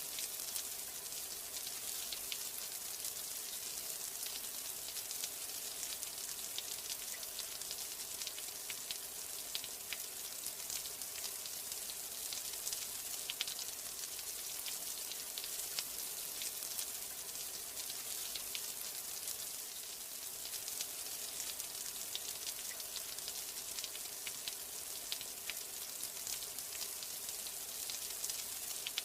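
Steady rain: an even hiss with a dense patter of individual drops ticking close by.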